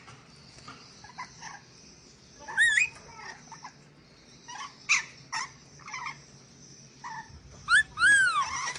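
Sulawesi nuri dora parrot calling: short harsh chirps at irregular intervals, with a louder run of arching squawks near the end.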